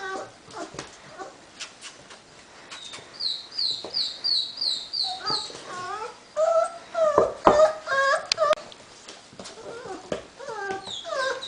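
Young puppies whimpering and yipping while they tug at a toy, the cries bunching up in the second half. A quick run of high squeaks comes about three seconds in, scattered clicks run under it, and a sharp thump near the middle is the loudest sound.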